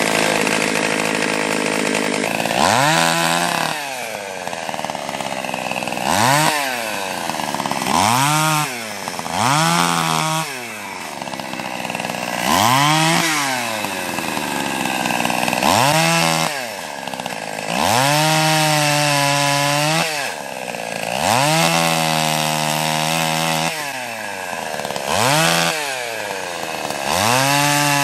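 Small two-stroke Stihl 020 climber's chainsaw cutting limbs, revved up and let back down about ten times, holding high revs through several of the cuts.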